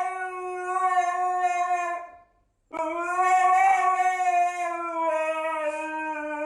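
A dog howling in two long, drawn-out howls, the first ending about two seconds in and the second starting after a brief pause, each held at a steady pitch that sags slightly.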